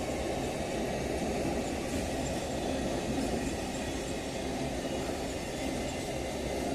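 Electric multiple-unit suburban local train running along the track: a steady, even rumble of wheels and motors.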